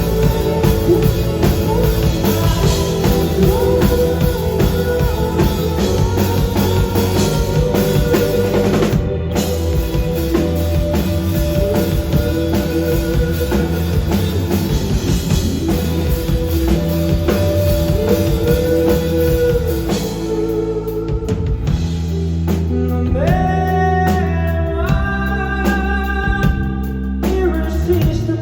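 Live rock band playing, with drum kit, electric guitar and voice. About twenty seconds in the drums drop back, leaving a sparser passage of held melodic notes.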